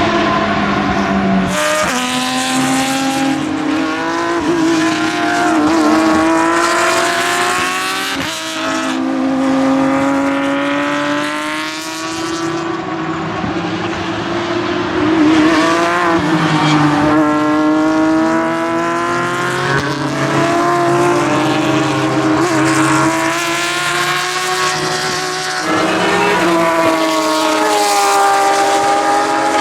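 Porsche 911 GT3-R (997) race car's flat-six on open exhaust, at racing speed. It revs up through the gears in repeated rising sweeps, with sudden drops in pitch at each shift and falling notes under braking.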